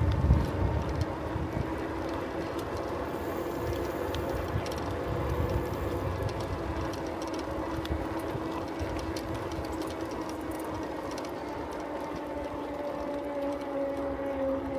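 Riding a bicycle along a road: a steady humming whine that drifts slightly in pitch over a rolling rumble, with wind buffeting the microphone that dies down about a second in.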